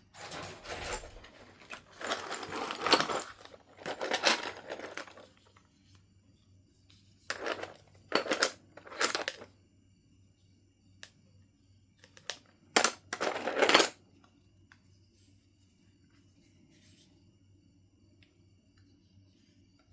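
Knife River Flint being worked by hand: about eight short bursts of stone clinking and scraping over the first fourteen seconds or so.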